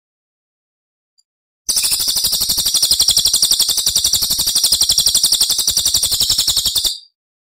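Recorded songbird song: a fast, high-pitched trill of rapidly repeated notes that begins after a second or two of silence, runs about five seconds and stops abruptly.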